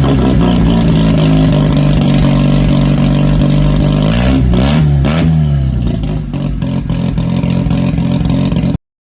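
Mazda 12A two-rotor rotary engine running at a steady idle, blipped quickly a few times about four seconds in, then settling back to idle before the sound cuts off suddenly near the end.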